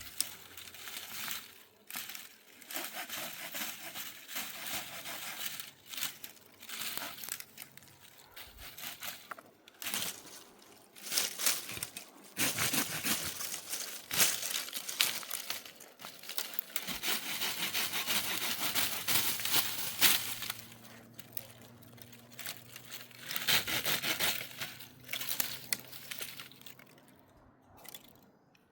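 Crinkling and rustling in irregular spells, broken by scattered sharp clicks.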